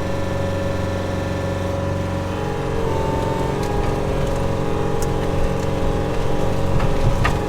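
Skid steer loader's engine running hard as it pushes over a dead tree trunk, with a higher whine coming in about a third of the way through. A few short sharp cracks sound near the middle and near the end.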